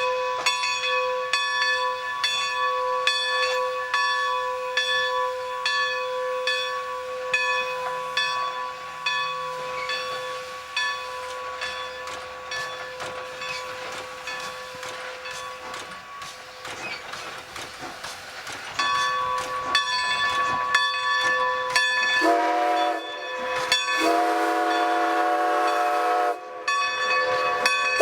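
Steam locomotive No. 90 working a train: its bell rings about once a second over a steady run of clicks. About three-quarters of the way through, the bell stops and the chime whistle blows a short blast, then a longer one.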